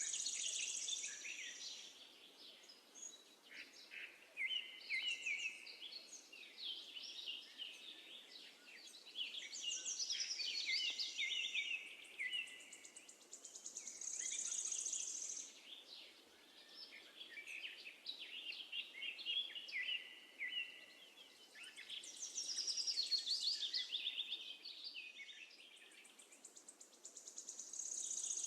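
Small birds, sparrows, chirping and twittering in busy overlapping phrases, with a high buzzy trill coming back every several seconds.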